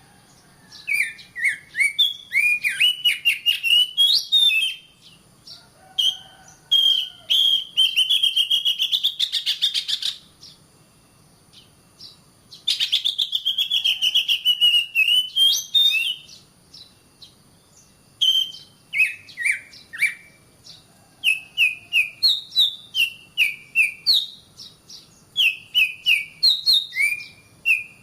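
Oriental magpie-robin (kacer) singing in loud bouts of a few seconds, with short pauses between them. Each bout is a run of whistled notes that slide up and down, mixed with fast chattering clicks.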